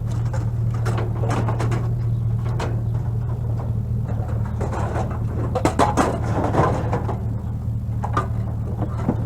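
A vehicle engine idling steadily, with scattered knocks and clattering of objects being handled, busiest around the middle.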